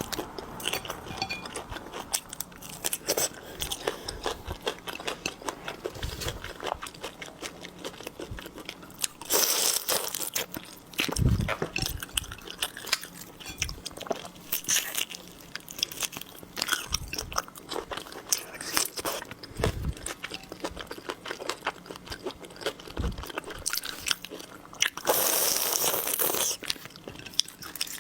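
Close-miked eating of seafood: steady wet chewing and crackly crunching, with two louder, longer crunches, one about a third of the way in and one near the end.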